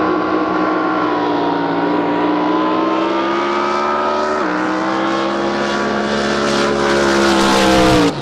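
Racing drag boat's engine at full throttle on a pass, its pitch climbing slowly. The pitch drops suddenly about halfway through, climbs again, then cuts off abruptly at the end.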